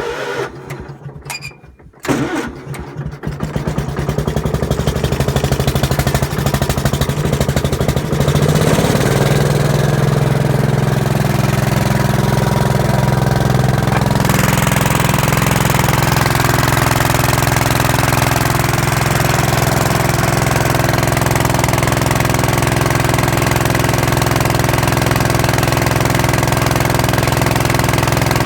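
Cold Gravely walk-behind tractor engine, primed with a shot of ether at about 15 degrees, catching about two seconds in after cranking. It runs unevenly at first, then settles into steady running from about nine seconds on.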